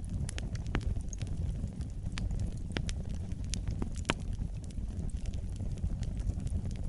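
Wood fire in a fireplace crackling: sharp irregular pops and snaps over a steady low rumble of flames.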